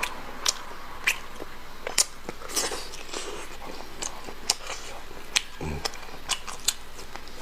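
Close-up eating sounds of braised pork bone meat: sharp wet lip smacks and chewing clicks, roughly one every half second to second. There is a short low vocal sound, like a grunt, a little before six seconds in.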